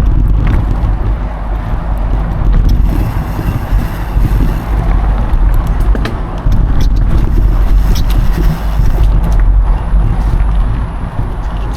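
Wind buffeting an action camera's microphone as a mountain bike rides along a trail, a loud steady rumble. Scattered clicks and knocks from the bike rattling over bumps run through it.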